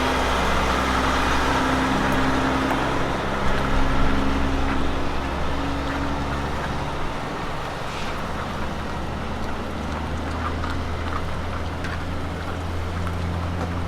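Road train prime mover's heavy diesel engine running. Its low engine note shifts to a new pitch about halfway through.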